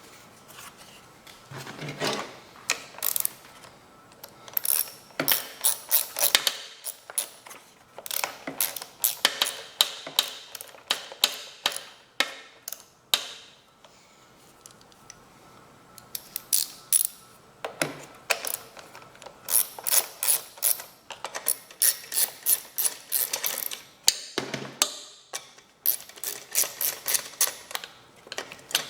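Hand ratchet wrench clicking in repeated runs of rapid strokes, pausing between runs as bolts are turned on the mower engine.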